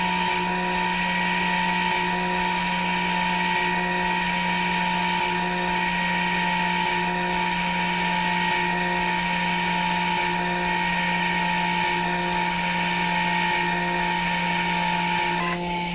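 CNC machine's spindle motor running at a steady speed with an even whine, a faint tick about every second and a half, then winding down right at the end.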